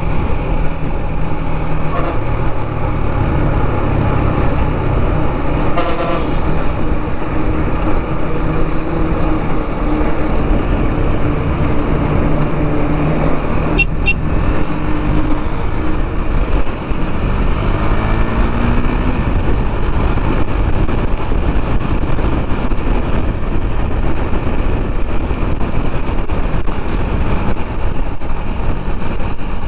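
KTM Duke 390's single-cylinder engine running at road speed in traffic, under a steady rush of wind and road noise. The engine pitch climbs for a few seconds about two-thirds of the way through as the bike accelerates.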